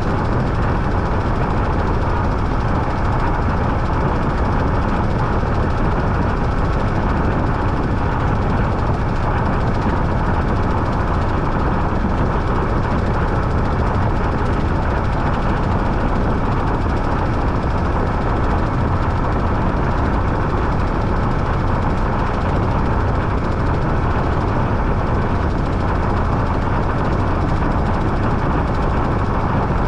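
Washing machine running, a loud steady machine noise with a strong low hum that holds even throughout.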